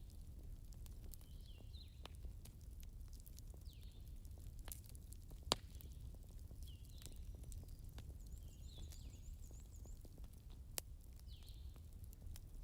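Wood fire crackling, with scattered sharp pops over a steady low rumble; the loudest pop comes about five and a half seconds in and another near eleven seconds.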